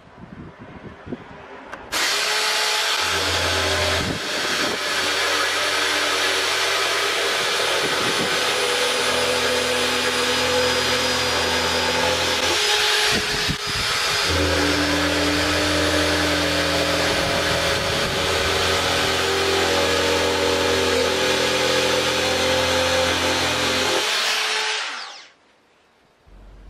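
Electric drill running steadily at speed, with a short dip about halfway through, then winding down near the end.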